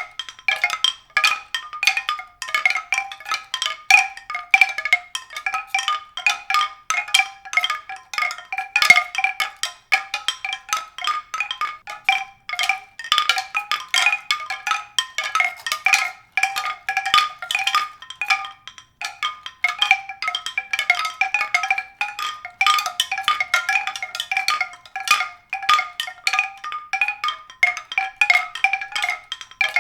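Continuous music of quickly struck, high, bell-like mallet-percussion notes, several strikes a second with no pause.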